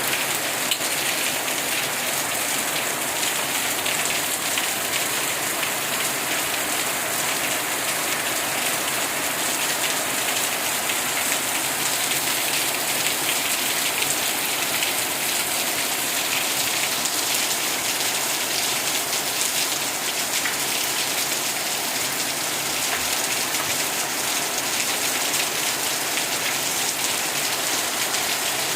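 Steady rain falling and pattering on a surface, an even hiss of many small drop impacts with no pauses.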